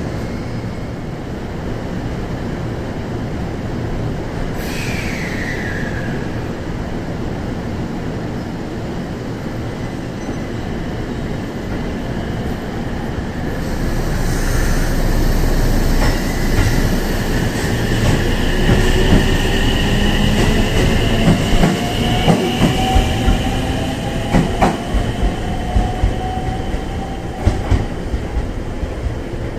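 JR Central 313 series electric train pulling away, its inverter motors whining in several tones that climb slowly in pitch as it gathers speed. In the second half, wheels clack over rail joints at a quickening pace.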